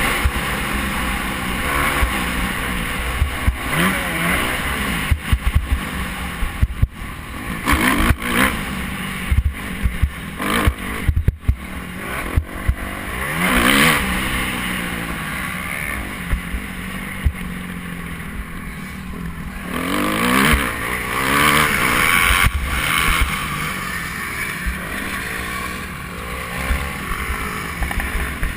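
Motocross bike engines revving and passing, their pitch rising and falling again and again, with low rumbling buffets like wind on the microphone.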